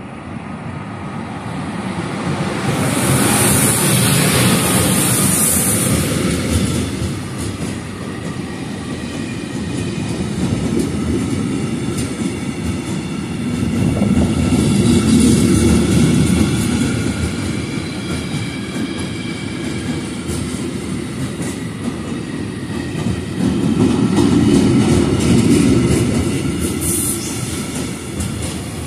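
Freight train hauled by an E191 electric locomotive passing through a station at speed. A high hiss comes about three seconds in as the locomotive goes by. Then the covered steel-coil wagons rumble and clatter past, the wheel noise swelling and easing in waves.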